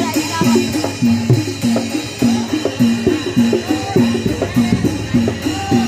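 Barongan Blora accompaniment: a gamelan-style ensemble, its hand drums driving a fast, steady beat of pitched strokes, two or three a second, with metal percussion ringing over it.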